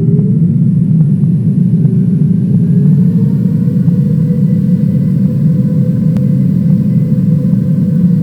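Aircraft engines running steadily, heard from inside the passenger cabin as a loud, even drone. A hum over the drone rises slightly in pitch in the first second, then holds steady.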